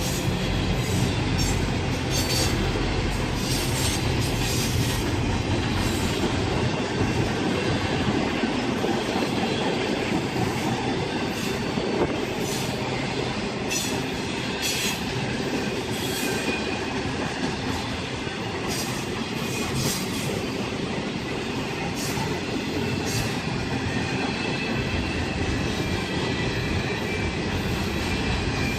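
Train cars rolling past on the rails, wheels clicking over rail joints with bouts of wheel squeal. A deep rumble underneath fades out several seconds in and returns near the end.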